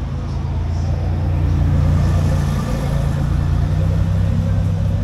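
A car engine running close by, low and steady, getting louder over the first two seconds.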